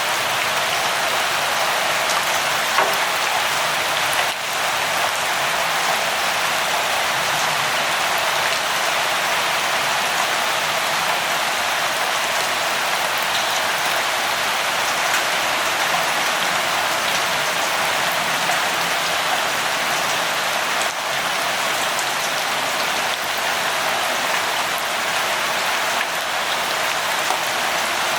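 Steady light rain: an even hiss, with now and then a faint tick of a single drop.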